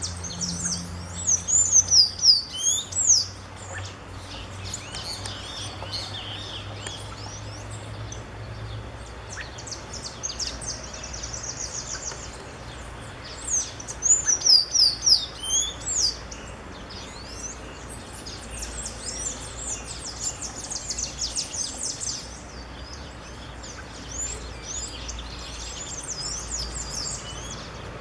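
Creamy-bellied thrush calling: two loud bouts of rapid, high, sliding notes, one about a second in and one about 14 seconds in, with softer chirps and quick trills in between. A faint low hum runs underneath for the first several seconds, then stops.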